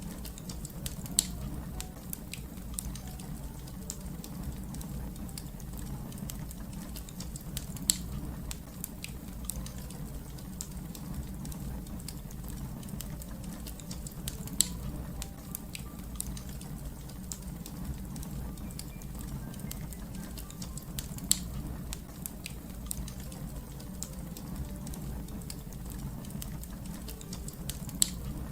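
Wood fire crackling: scattered small crackles over a low, steady rumble, with a sharper pop about every seven seconds.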